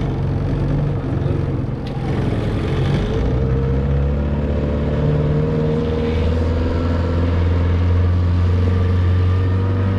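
Mercury 9.8 hp outboard motor running at speed, pushing a small jon boat. Its pitch drops briefly about two seconds in, then climbs a little and holds steady.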